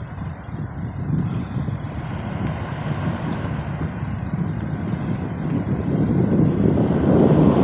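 Fire apparatus approaching on the road: engine and tyre rumble growing steadily louder, with no siren.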